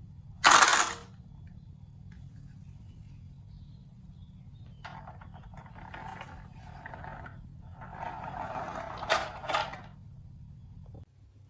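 Marbles rolling and clattering down a wooden marble run. There is one loud sharp clatter about half a second in, then two longer runs of rolling rattle, the second louder and ending in a couple of sharp clicks. A steady low hum runs underneath and stops shortly before the end.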